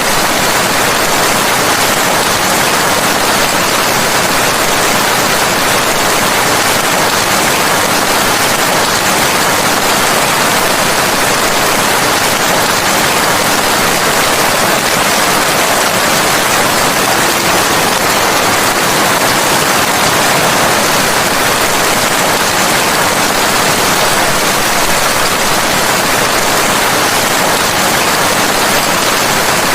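Steady heavy rain, an even hiss of falling drops with no separate drop sounds or thunder.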